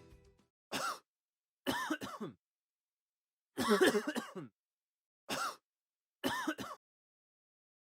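A person coughing in five short bouts, some single and some a quick double cough, with pauses between.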